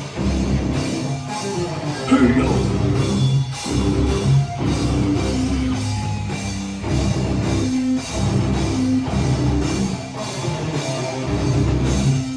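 Live heavy metal band playing an instrumental passage: distorted electric guitars and bass over a driving drum kit.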